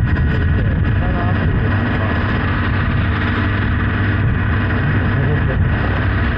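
Honda Hornet 900 motorcycle's inline-four engine running at a steady cruise while riding, under steady wind and road noise.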